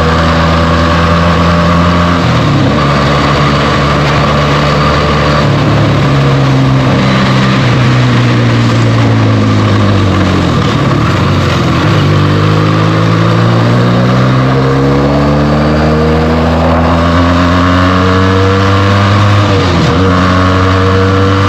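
Benelli TNT 300's parallel-twin engine through its stock exhaust while riding. The engine note holds, falls in pitch as the bike slows around the middle, then climbs again under acceleration, with short breaks at gear changes early on the rise and near the end.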